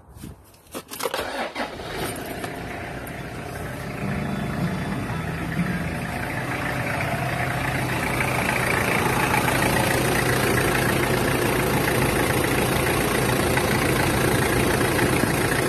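Car engine cranked by its starter and catching within about a second on battery power alone, with no supercapacitor connected; the tester times the crank at 0.712 seconds. It then idles steadily, getting louder as the engine bay comes near.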